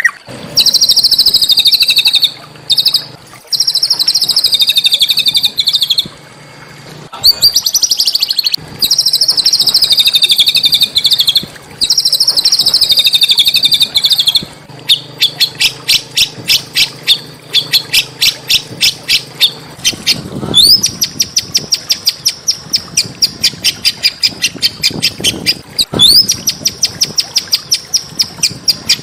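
Small songbird singing loud, rapid trills, each lasting a few seconds with short breaks between them. About halfway through, the song changes to a fast run of sharp, evenly repeated notes, and then to a higher, very rapid trill.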